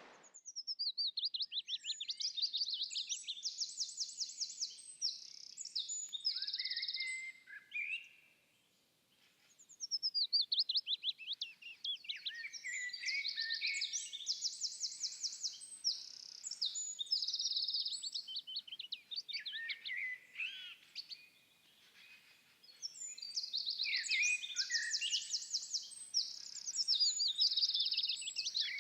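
A small songbird singing a long song three times, each opening with a quick falling run of high notes and going on into rapid, high trills, with short pauses between songs.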